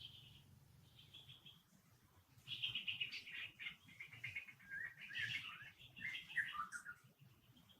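High-pitched chirping calls: one short call at the start, then a rapid run of chirps from about two and a half seconds in, stepping lower in pitch near the end before stopping.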